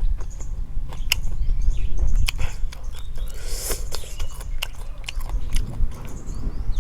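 A person biting and chewing food close to the microphone, with irregular crisp clicks and crunches over a steady low rumble.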